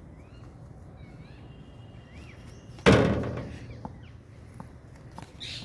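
Parrots chirping faintly with short, curving calls, and a single loud slam about three seconds in that dies away over about a second.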